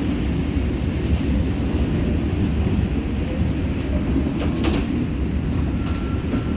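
Seoul Metro Line 4 subway train running between stations, a steady low rumble with scattered clicks and one sharper clack about four and a half seconds in.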